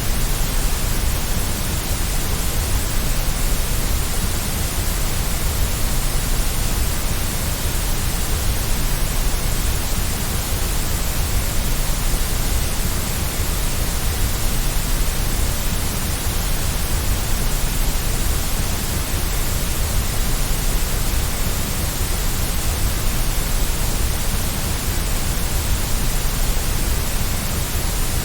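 Steady white noise, an even hiss across all pitches that does not change, played to soothe a baby to sleep.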